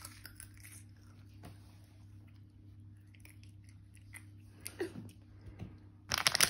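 A toddler chewing potato crisps, with faint crunching. About six seconds in, a sudden loud crackling rustle, the crisp packet being handled.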